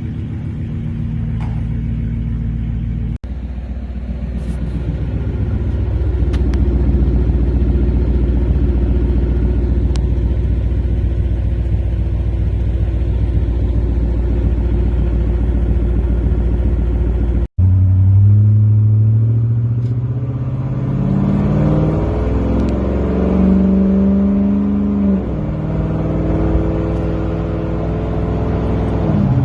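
Toyota Tundra's 5.7-liter iForce V8 exhaust through a Flowmaster Super 10 muffler: a steady low rumble, then, after an abrupt cut, the engine pulling up through the revs and dropping back several times as the truck accelerates and shifts.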